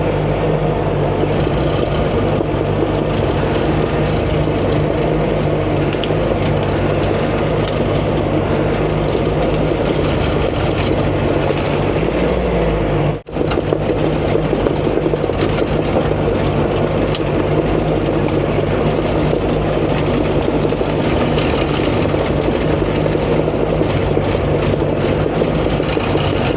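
Diesel engine of a CAT D5 bulldozer running steadily under work, pushing out a felled tree and dirt. The sound drops out for a moment about halfway through.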